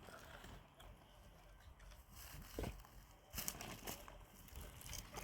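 Faint rustling and crackling with scattered sharp clicks, a cluster of louder clicks a little past the middle.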